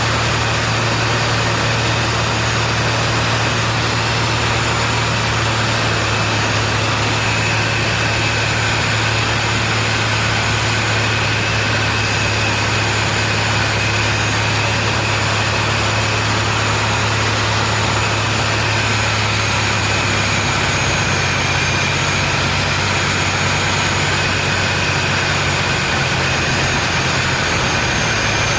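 Zlin Z-226MS piston engine and propeller droning steadily, heard from inside the cockpit in flight, with steady high whines over a loud rushing noise. The low engine hum shifts slightly about twenty seconds in.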